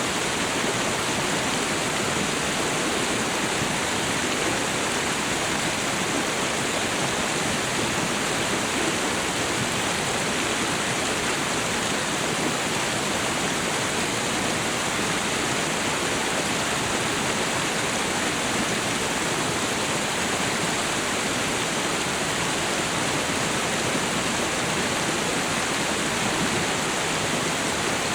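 Waterfall and river water rushing steadily and evenly, with no separate splashes or changes.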